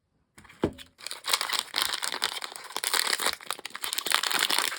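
Plastic blind-bag packaging crinkling and rustling in the hands as it is torn open to get at the mini figure. There is a soft knock just after it starts, then a dense run of crinkling.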